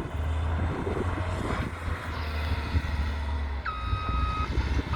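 Steady low engine rumble, then a vehicle's reversing alarm starting near the end: two long beeps.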